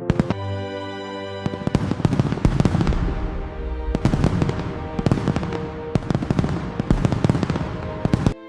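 Fireworks bursting and crackling in quick succession, many sharp bangs throughout, over a background music track; it stops abruptly near the end.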